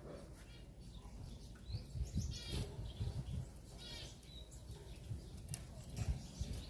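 Small caged pet birds calling, with two short, rapid chattering calls about two and a half and four seconds in. Low thumps and wing flutters come from birds moving about while bathing.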